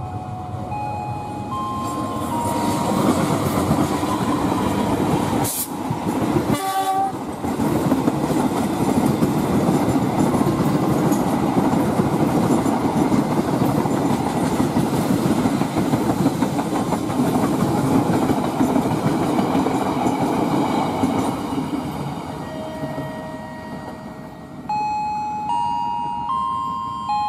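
Passenger train's carriages rolling past on the rails, a steady dense rumble of wheels on track, with a brief horn sound about seven seconds in. The rumble fades out about three quarters of the way through.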